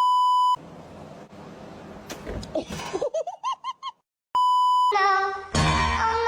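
Two steady 1 kHz censor bleeps, one at the very start lasting about half a second and another about four seconds in, with a quick run of rising cartoon-style chirps, about six a second, shortly before the second. Near the end a loud, long, wavering pitched call begins.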